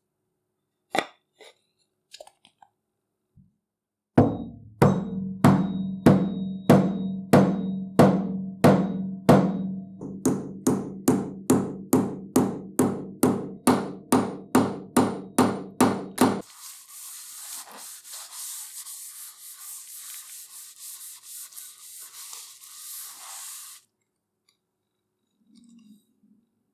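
A hammer striking in a steady run of ringing blows, about two a second, quickening about halfway through, as a hammer head or wedge is driven on. The blows stop suddenly and give way to a steady scratchy rubbing hiss that lasts about seven seconds.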